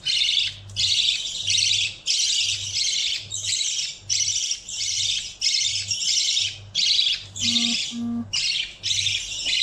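Baby budgerigar giving harsh, raspy calls over and over, about three every two seconds, typical of a chick begging for food. Two brief low tones sound about three-quarters of the way through.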